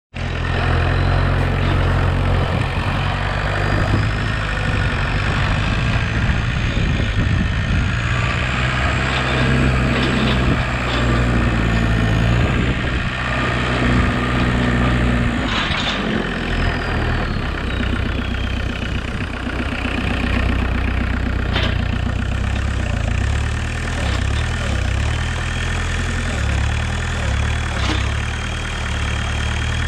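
Homemade tractor's VW 1.6 turbodiesel engine running steadily, its pitch shifting for a while in the middle, with a few sharp knocks in the second half.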